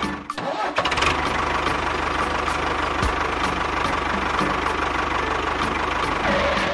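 Engine running steadily with a fast, even low pulse, as of a tractor, with a brief dip about half a second in.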